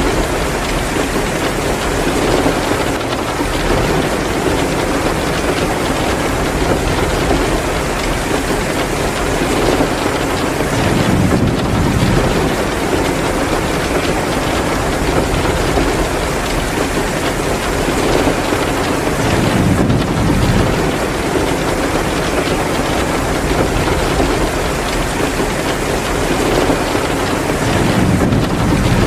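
Heavy rain pouring steadily, mixed with a wood fire crackling in a fireplace. A low rumble swells up briefly three times.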